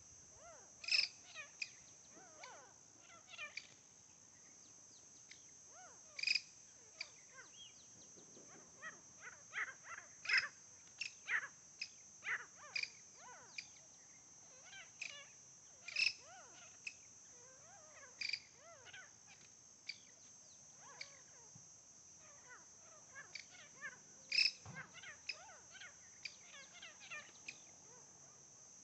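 Wild birds calling: many short chirps and whistles from several birds, with a louder sharp call every few seconds, over a steady high hiss.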